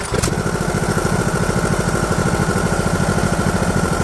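Husqvarna lawn mower engine starting up and running steadily with an even, rapid pulse and a steady high whine over it, just after a new fuel filter has been fitted. It catches suddenly right at the start.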